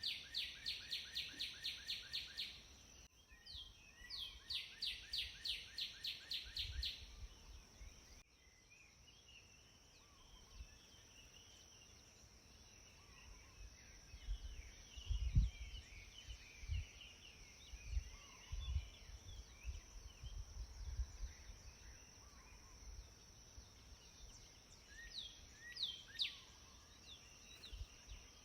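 Outdoor birdsong ambience: a bird sings two quick runs of rapidly repeated high notes, about six a second, then after an abrupt change about eight seconds in, softer scattered chirps of several birds take over. A steady high-pitched drone runs underneath, and low thuds from about halfway on sound like wind or handling on the microphone.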